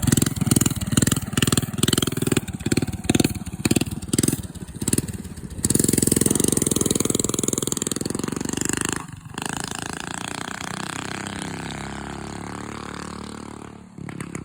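Predator 212cc single-cylinder mini bike engine blipped on and off the throttle in quick pulses, about two to three a second. It is then held wide open for about three seconds, drops off sharply for a moment, and runs on with its pitch slowly falling as it fades.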